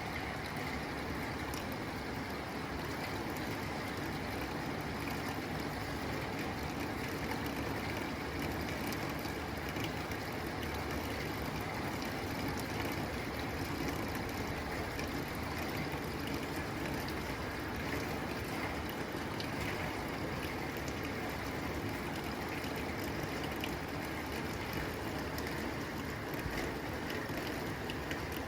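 Steady rain drumming on a tin roof: a dense, even patter of drops with no pauses.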